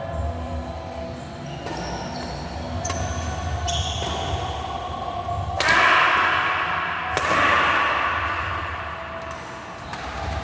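Crowd in an indoor sports hall over a steady din, breaking into loud cheering twice in quick succession about halfway through, with a few thuds of play.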